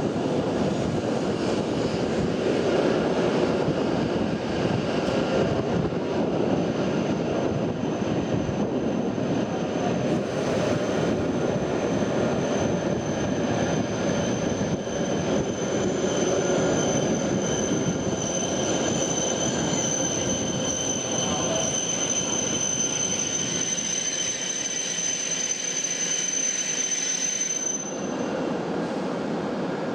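Shinkansen train moving along the platform with a steady rushing running noise. A thin high whine joins about a quarter of the way in and cuts off abruptly near the end.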